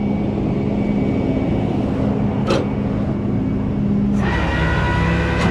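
A truck engine idles steadily, with one sharp click about two and a half seconds in. About four seconds in, the running gets louder and deeper and a steady whine joins it.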